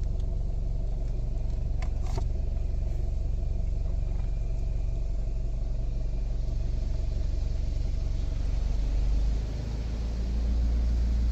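Steady low mechanical rumble and hum heard from inside a car sitting in an automatic car wash bay between wash stages, with a faint click about two seconds in and the rumble swelling slightly near the end.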